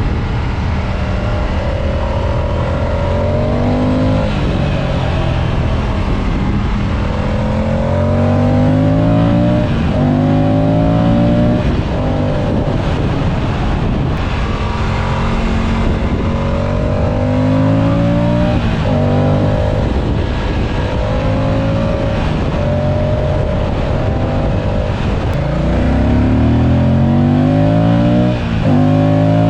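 Moto Guzzi Stelvio's transverse V-twin accelerating hard through the gears. The engine note climbs in pitch and drops back at each upshift, several times over, with wind rushing past the rider-mounted microphone.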